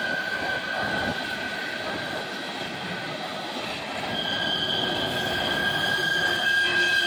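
Empty coal hopper cars of a long freight train rolling past, the wheels rumbling on the rails with a steady high-pitched wheel squeal on top that grows stronger about halfway through.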